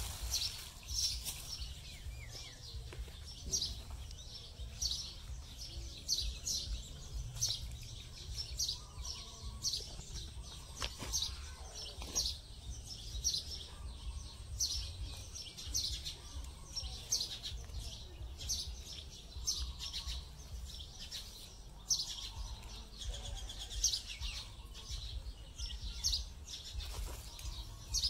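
A bird chirping over and over, short high chirps about once a second, over a low rumble.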